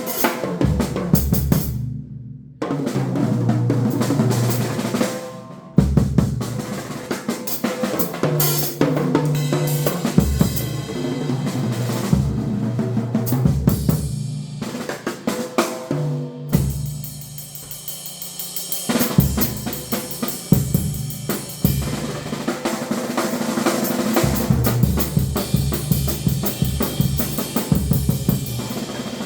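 Drum kit played in a solo: snare, bass drum and hi-hat, with fast rolls, rimshots and fills. There are short breaks about two and about six seconds in.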